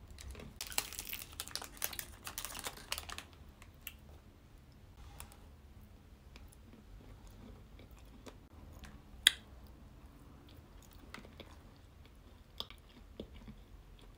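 Close-up eating sounds: a faint chewing of millionaire shortbread with scattered small mouth clicks, after a burst of plastic wrapper crinkling in the first few seconds. One sharp click stands out about nine seconds in.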